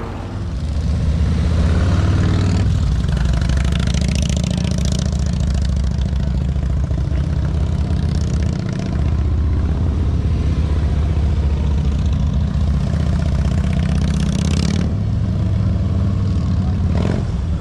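Motorcycle engine running at low revs with a steady low throb, while the rider works the throttle at walking speed. The throttle opens briefly a few seconds in and again about fourteen seconds in.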